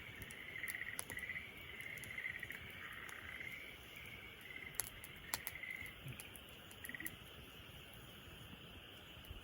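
Campfire crackling, with a few sharp pops about one, five and seven seconds in, under a faint pulsing trill of a night chorus that dies away about seven seconds in.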